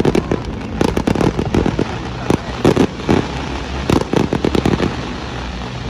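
Fireworks display: volleys of bursting shells and crackling bangs, coming in several quick clusters a second or so apart.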